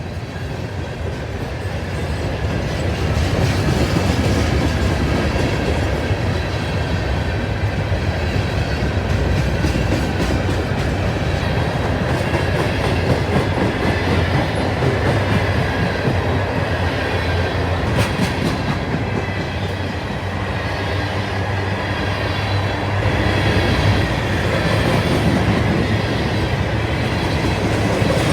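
Freight train of ballast cars rolling past: a loud, steady rumble of steel wheels on the rails, with a few sharp clicks about two-thirds of the way through.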